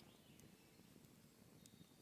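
Near silence: faint outdoor forest ambience, with a couple of soft ticks.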